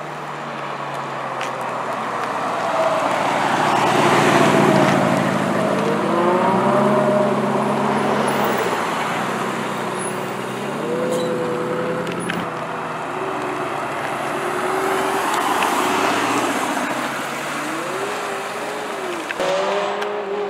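Supercar engine driving past at low speed, its revs rising and falling several times as it accelerates and shifts. It is loudest about four to five seconds in, and engine revs rise and fall again later on.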